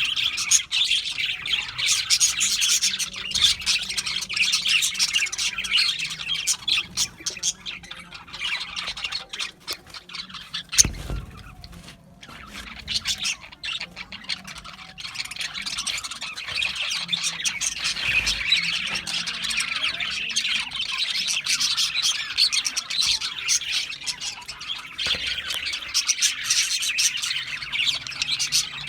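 Budgerigars chattering, chirping and squawking without a break, busy and high-pitched, thinning out for a couple of seconds around the middle. A short thump sounds about eleven seconds in, and a softer one about a week later near eighteen seconds.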